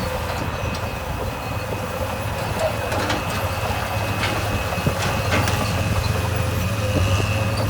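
Heavy earthmoving machine's diesel engine running steadily with a low drone and a thin steady whine above it, with scattered short clicks and knocks.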